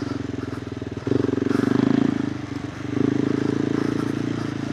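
KTM 390 Adventure R's single-cylinder engine through a Norifumi Whoops slip-on exhaust, running in second gear. The throttle opens about a second in, eases off, then opens again near the three-second mark.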